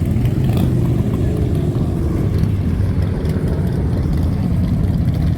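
Motorcycle engines running steadily, a dense low engine sound with no break.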